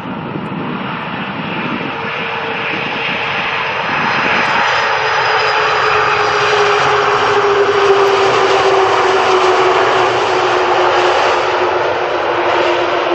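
Jet airliner on landing approach passing close by, its engine noise growing louder over the first half, with a whine that slowly falls in pitch as it goes past. Wind buffets the microphone in the first few seconds.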